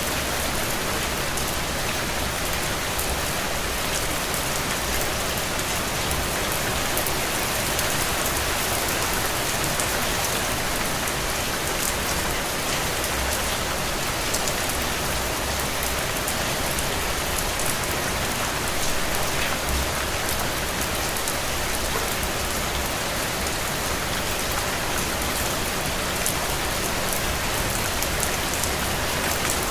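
Steady rain falling and pattering on a window, an even hiss with scattered drop ticks.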